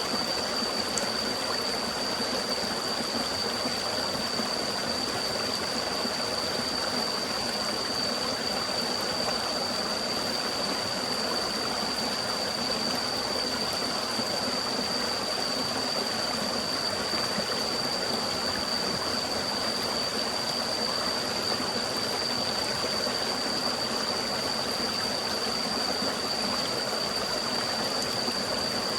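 Forest stream running steadily, with a thin, steady high-pitched whine held over it.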